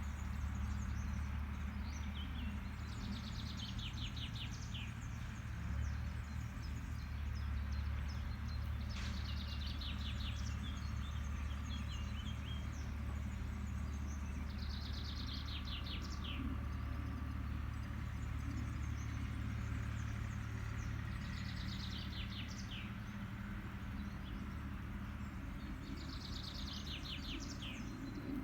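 Steady low drone of an agricultural machine's engine running in the distance, with a bird singing a short trilled phrase about every six seconds over it.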